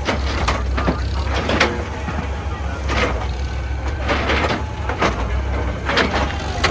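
Excavator's diesel engine running steadily, with repeated sharp knocks and scrapes of metal on rock, some with a short squeal.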